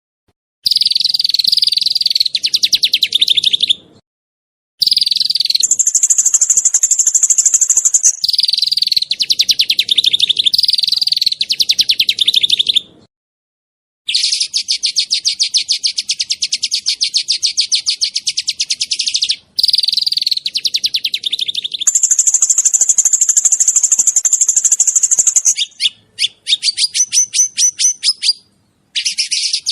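Small songbird singing rapid-fire runs of sharp, closely spaced high notes, the 'tembakan' song used as masteran. The runs come in phrases of a few seconds that stop suddenly, with short gaps between.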